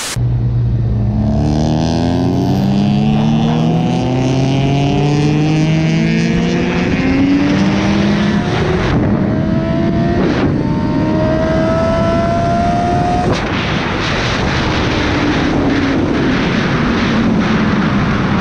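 Motorcycle engine accelerating hard up through the gears: its pitch climbs steadily, drops back at a shift about halfway through, then twice more soon after, and holds steadier near the end. Constant wind rush sits under it.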